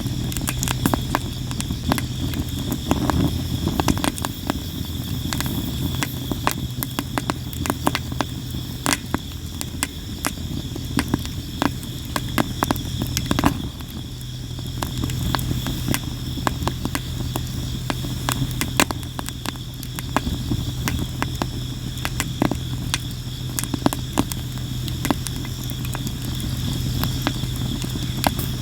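Sawara cypress firewood burning in a campfire, crackling and popping constantly with many sharp irregular snaps. A steady high insect trill and a low steady hum run underneath.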